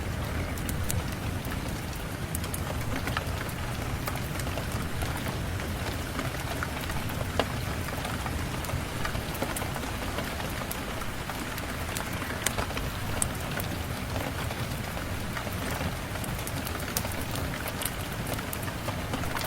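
Steady rain, with a wood fire crackling over it in scattered sharp pops and ticks.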